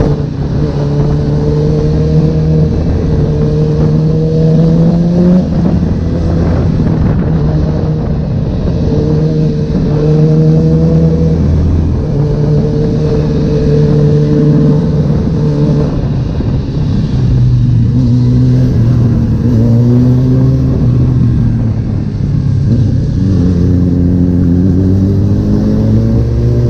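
Honda CB1000R's inline-four engine under way, its note climbing with throttle, dropping back, holding steady and climbing again near the end, with wind and road noise over it.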